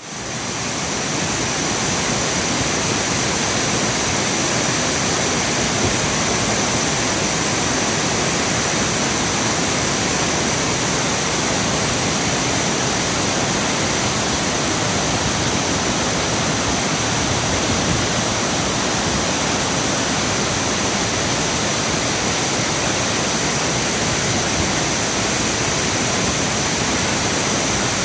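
Fukuroda Falls, a large waterfall, pouring with a steady, loud rush of falling water that fades in over the first second.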